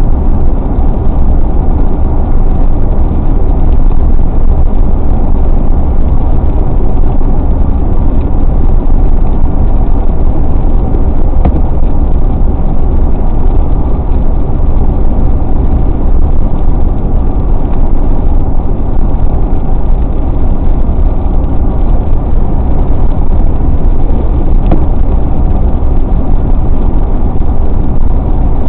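Steady low rumble of a car on the move: road and engine noise that stays even throughout, strongest in the deep bass.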